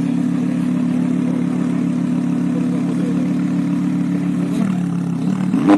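Lamborghini Huracán's V10 idling steadily, the note dipping slightly past halfway, then a quick throttle blip near the end with a sharp crack at its peak.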